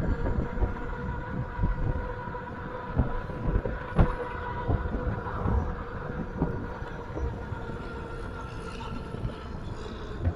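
Steady rumble of a moving vehicle with a constant hum and uneven low knocks and rattles, and one sharp click about four seconds in.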